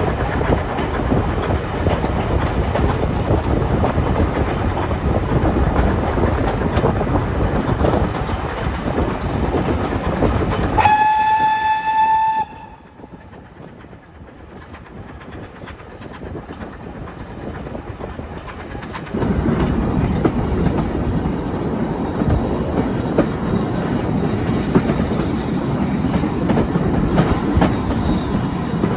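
A train running on the rails with steady rolling clickety-clack. About eleven seconds in, a steam whistle gives one steady blast of about a second and a half, from ex-GWR locomotive 5619. After the whistle the rolling noise drops away sharply for several seconds, then returns at full level.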